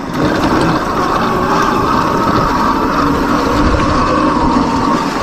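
Bombmoto B1 electric dirt bike being ridden: steady wind rush on the microphone over a steady whine from the motor and drivetrain, with tyre noise.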